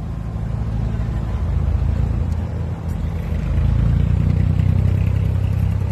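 Cruise boat's engine running with a steady low drone, growing louder about three and a half seconds in.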